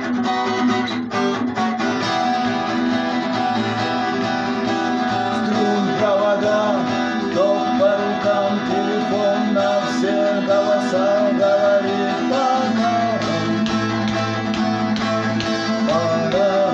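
Music led by strummed guitar, playing steadily throughout, with a wavering melody line above it from about a third of the way in.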